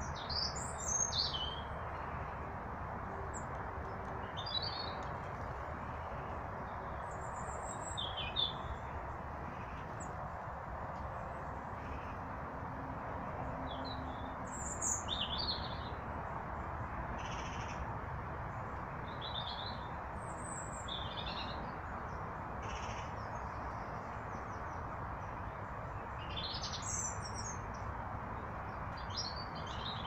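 Small woodland birds calling with short, high chirps every couple of seconds, loudest about a second in, over a steady rushing background noise.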